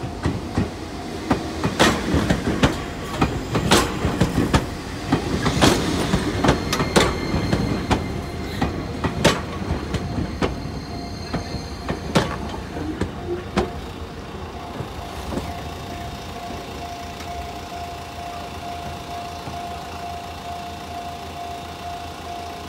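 Enoshima Electric Railway (Enoden) train passing close by, its wheels clacking over the rail joints in a string of sharp knocks for about the first thirteen seconds. After that the train noise settles to a steadier rumble, and a level-crossing warning bell rings steadily.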